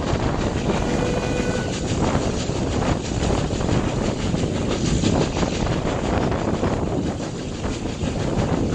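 Railway carriage running along the track, heard from an open window: a steady rumble of wheels on rail with air rushing past.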